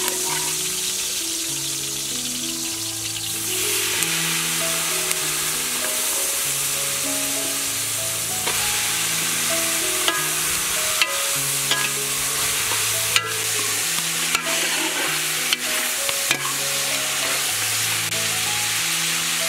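Chicken pieces sizzling as they fry in a large aluminium pot, with a metal ladle stirring and clinking against the pot; the sizzle grows louder about three seconds in. A slow melody of background music plays throughout.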